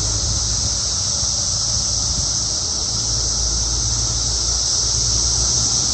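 Chorus of 17-year periodical cicadas (Brood X): a steady, unbroken high-pitched hiss from a whole swarm in the trees, over a low rumble.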